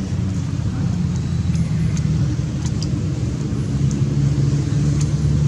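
A motor engine running steadily with a low hum, and a few faint clicks over it.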